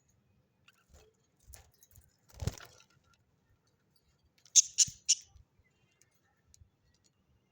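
A bird moving about with soft rustles and light knocks, then three quick, sharp, high-pitched chirps in a row about halfway through.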